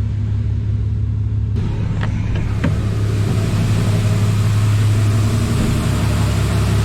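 A vehicle's engine idling, a steady low hum heard from inside the cab, with a rushing hiss that starts suddenly about a second and a half in and keeps going.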